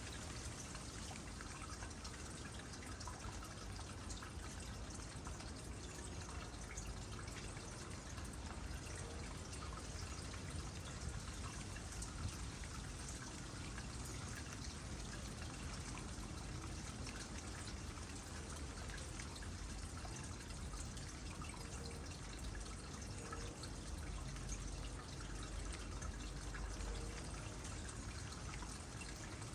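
Water trickling steadily into a small pond, with many small drips and splashes.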